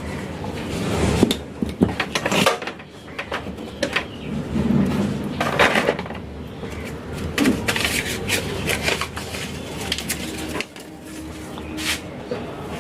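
Irregular clicks, knocks and rustling of hands handling a CRT TV's chassis and wiring while a replacement speaker's wire is plugged in by its jack.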